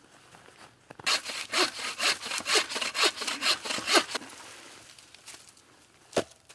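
Hand saw cutting dry black ash firewood, about three seconds of quick back-and-forth rasping strokes starting a second in. A single sharp knock near the end.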